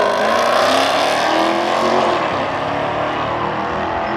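A car engine running loudly and steadily, its pitch wavering slightly.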